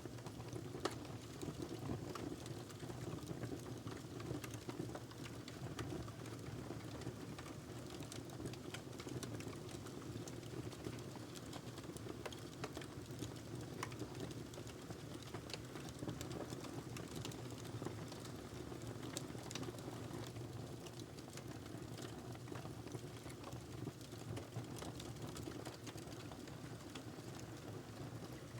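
Wood fire crackling steadily: a low rumble of burning with many small irregular pops and snaps from the log throughout.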